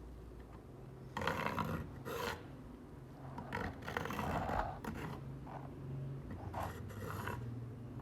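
Hand work on the rusty machete blade: about five irregular rasping, scraping strokes, each under a second to about a second long, over a faint steady hum.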